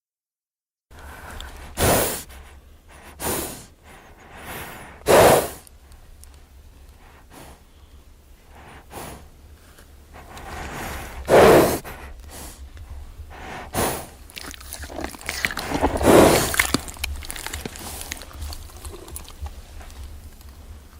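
Horse snorting and blowing hard through its nostrils about six times, in short loud blasts, with softer crunching and breathing between them.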